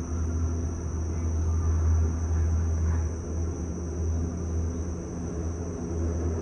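Steady low rumble inside a Disney Skyliner gondola cabin gliding along its cable, with a faint hum and a thin, steady high whine above it.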